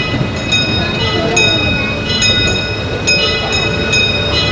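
Disneyland Railroad passenger train rolling along the track, heard from inside an open-sided car: a steady rumble with frequent short clicks that ring briefly.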